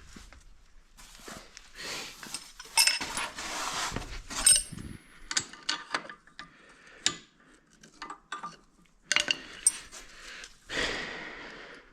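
Metal parts clinking, rattling and scraping against each other as a quad's chain guide and roller are worked free by hand, with a short metallic ring about halfway through.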